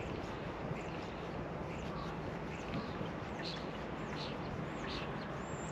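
Small songbirds chirping and whistling in short calls, more often in the second half, over a steady rush of wind noise on the microphone.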